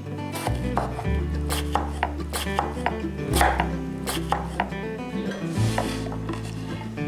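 A knife chopping on a cutting board in a series of irregular strokes, plausibly cutting potatoes, over background music with a slow-moving bass line.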